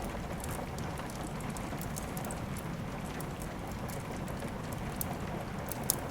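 Steady rain mixed with a wood fire crackling in a fireplace: an even rushing hiss with scattered sharp pops, one louder pop near the end.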